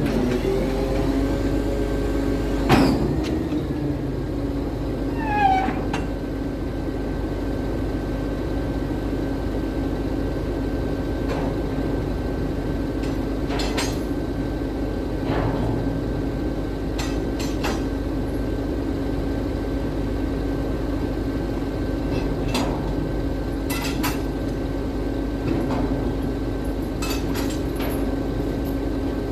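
Scania P380 truck running steadily with a constant hum, with a dozen or so sharp metallic clicks and knocks scattered through and a short falling squeal about five seconds in.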